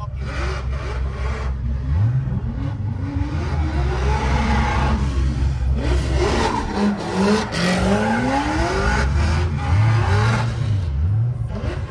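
Car engine revving hard and repeatedly, its pitch climbing and dropping as the throttle is worked on and off, with tyre noise from a drifting car.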